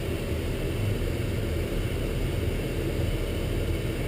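Military convoy truck driving, a steady low engine and road rumble heard from on board the vehicle.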